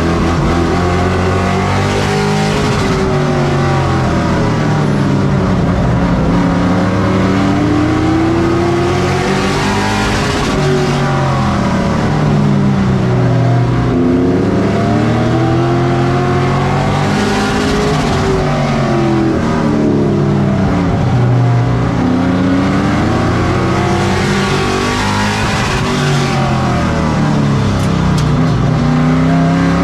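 Several race truck engines running in a pack around a short oval track, their pitch climbing on the straights and falling away into the turns, over and over.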